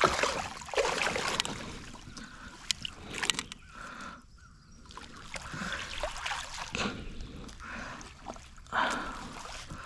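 Water splashing and sloshing against a kayak, with sudden bursts and a few sharp knocks, as a hooked bass is wrestled to the boat and netted.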